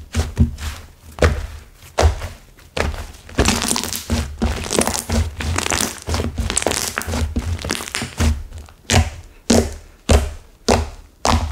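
Clay-mixed slime whose clay has set hard being squeezed and poked by hand: a string of dull thunks with crackling and breaking sounds, thickest in the middle, then sharper separate pokes towards the end.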